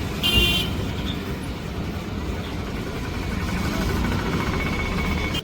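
Busy street noise with a brief vehicle horn toot near the start.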